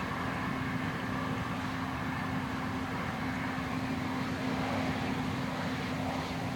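Vehicle engine running steadily with a constant low hum, holding an even level throughout.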